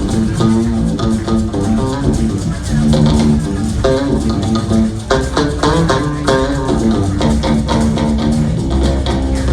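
Live rock band playing, with electric guitar notes over bass guitar and drums.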